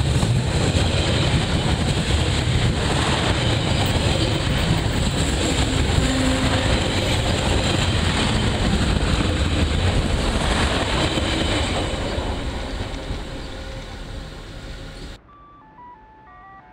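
A train passing close by, a loud steady rumble of wheels on rail that fades away over the last few seconds. It cuts off abruptly and is followed by a short chime of stepped tones from the station's public-address system.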